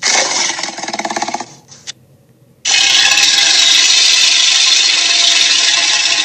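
Recorded dinosaur roar sound effects, played twice: a short pulsing growl of about a second and a half, then, after a pause, a long harsh roar held for several seconds.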